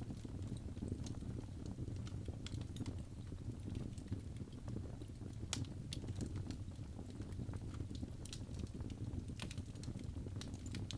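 Fire burning in a fireplace: a steady low rumble of flames with irregular crackles and sharp pops, the loudest pop about five and a half seconds in.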